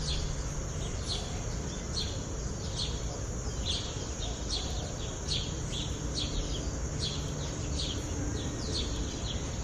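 A small bird chirping over and over, short falling chirps about twice a second, over a steady background hiss.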